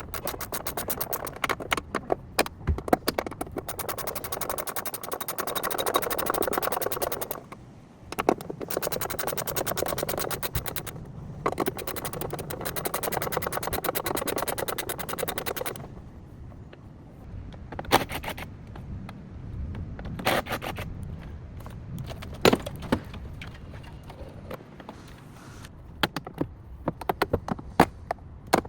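Body-shop work on a car: rapid mechanical clattering and scraping for about fifteen seconds, then quieter, with scattered single knocks.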